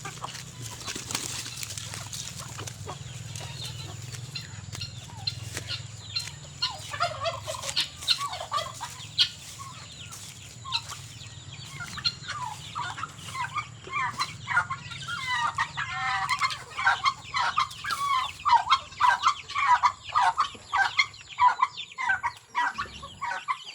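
A backyard flock of chickens clucking at feeding time, with a turkey gobbling among them. The clucking is scattered at first. From about halfway it becomes a dense, busy chorus of quick short calls that grows louder toward the end.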